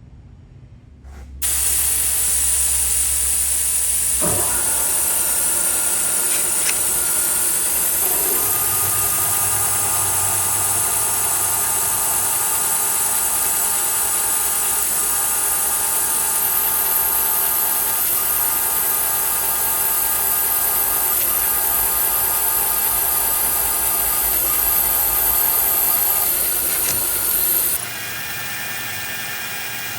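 A mist coolant system (Noga Mini Cool spraying Trim Mist) hisses on suddenly about a second in, over a manual milling machine working a steel fixture plate, with steady whining tones. Near the end the hiss cuts off, leaving the mill running more quietly.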